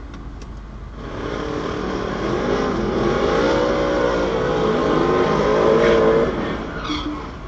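Drag-racing car engine at full throttle, growing louder over several seconds with its pitch sweeping up and down, then falling away about six seconds in.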